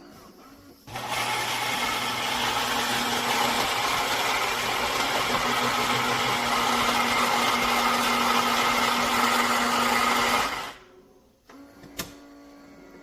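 Philips Series 3300 espresso machine's built-in ceramic grinder grinding coffee beans: a loud, steady motor grind that starts about a second in and stops suddenly after about ten seconds. A quieter steady machine hum with a couple of clicks follows near the end.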